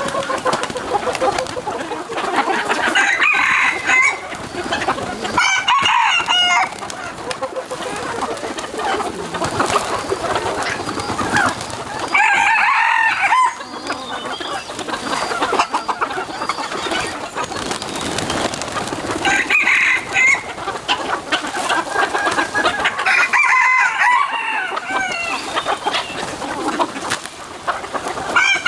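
Chickens clucking, with a rooster crowing; loud calls come every few seconds.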